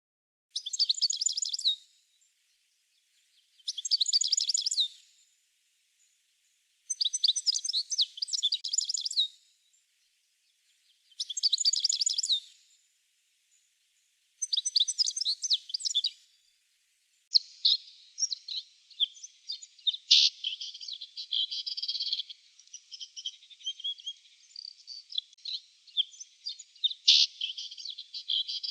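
Birdsong: five short phrases of rapid, high chirping notes, each about two seconds long, separated by pauses of similar length. From about halfway through, the chirping turns into continuous busy chattering.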